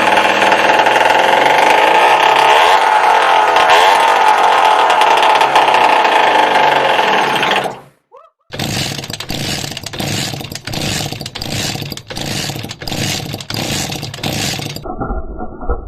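An engine running with a steady whine for about eight seconds. It cuts off abruptly, then a rougher rhythmic running sound follows, pulsing about twice a second.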